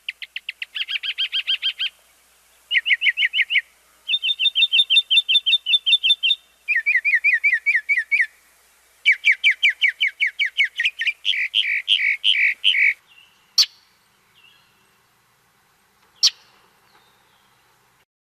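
A songbird singing a string of rapid trills, each phrase a fast run of one repeated note before switching to a new note type, about a second or two per phrase. The song stops near the two-thirds mark, followed by two sharp clicks a few seconds apart.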